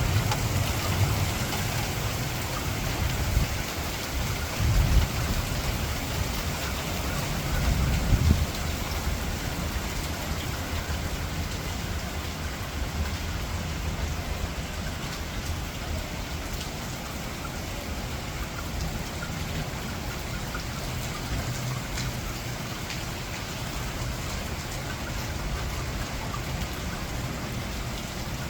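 Heavy rain falling steadily in a severe thunderstorm, with low rumbles of thunder rolling through the first several seconds and then dying away.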